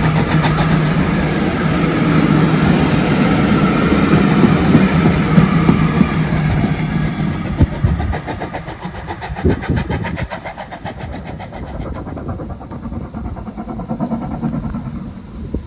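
Steam-hauled train passing close by, loud with a rapid even beat, then fading away after about eight seconds.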